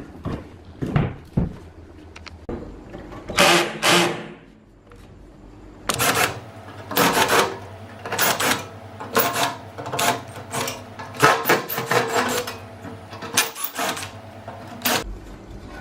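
Irregular bursts of scraping and clattering from hand work with tools and parts, about a dozen over the span, some a second or so long, over a faint low hum.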